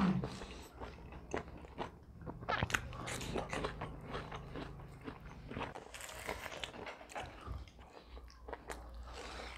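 Close-up eating sounds: people chewing and biting roast chicken and watermelon, with irregular small crunches and wet clicks.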